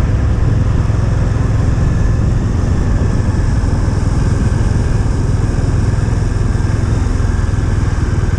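Motorcycle engine running steadily at an even pitch, with no gear changes: the gearbox is jammed in one gear, third or fourth.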